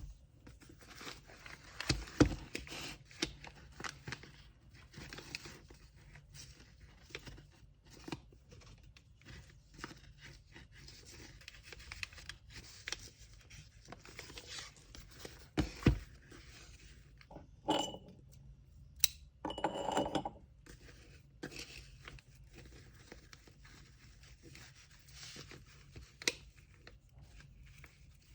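Hands packing parcels with kraft paper and packaging supplies: paper rustling and tearing, scrapes and light taps. There are louder knocks about two seconds in and again just past the middle, and a brief squeaky rasp about two-thirds through.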